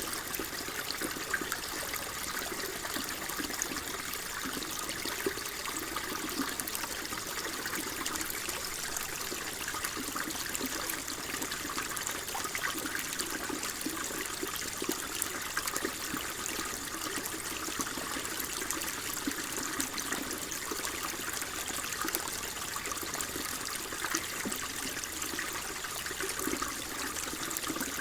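Water flowing steadily over rocks, with a continuous rushing and small splashes and trickles running through it.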